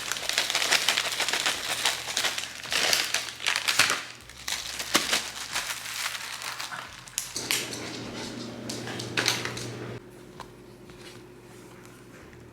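Plastic packaging crinkling and rustling as things are handled and packed, loudest in the first few seconds, followed by scattered clicks and knocks. A steady hum runs for a few seconds in the latter half.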